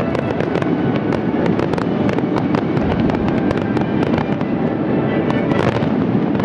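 Fireworks display: clusters of red crackling stars going off in dense, rapid crackle, countless sharp pops over a thick continuous rattle. A brief rush of hiss rises near the end.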